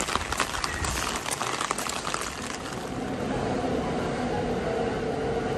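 Rain pattering and hissing with many fine drops. About two and a half seconds in it gives way to a steady hum with a few held tones, typical of a train running.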